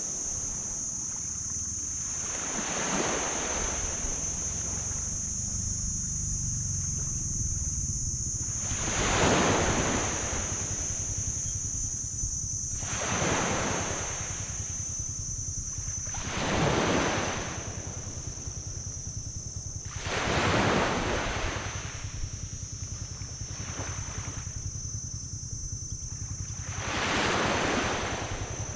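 Small waves breaking and washing up a sand beach, a surge every few seconds, six in all, over a steady high hiss and a low rumble.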